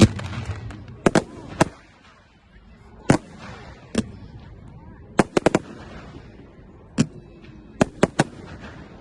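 Firework display: a string of sharp aerial bangs at irregular intervals, some in quick pairs and triples, over a faint crackling hiss.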